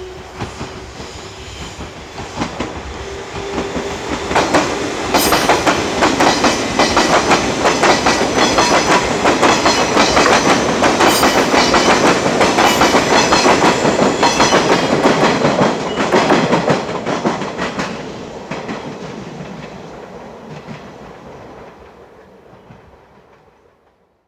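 JR 381 series express electric train running past at speed: its wheels clack in a steady rhythm over the rail joints, growing loud as the cars go by and fading away as it recedes.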